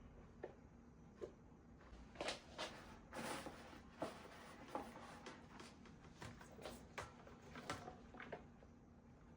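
Quiet, scattered light clicks and taps, about a dozen, from small objects being handled, over a faint steady hum.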